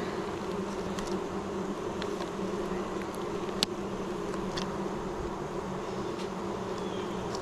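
Honeybees buzzing in a steady hum over an open hive, with a few light clicks, the sharpest about halfway through.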